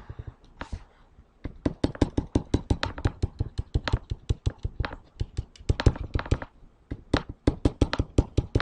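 Rapid taps and strokes of a drawing tool against a writing surface as a figure is drawn, about five or six sharp ticks a second, starting about a second and a half in.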